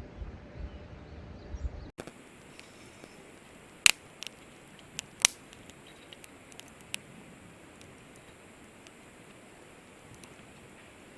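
Firewood crackling in a fire pit: scattered sharp pops over a faint steady hiss, the two loudest a little over a second apart. It is preceded by about two seconds of low rumbling that cuts off abruptly.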